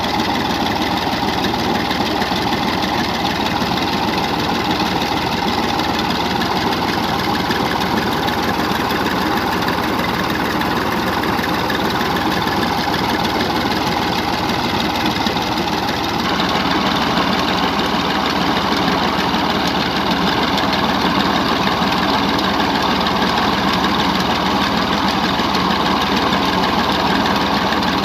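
Massey Ferguson 135 tractor engine running steadily under heavy load while driving a tubewell pump. About sixteen seconds in the sound gets a little louder and brighter.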